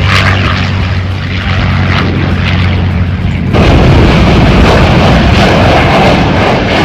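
Military aircraft at an airshow: a steady, loud low engine drone, then about halfway through a sudden switch to a louder rushing engine noise.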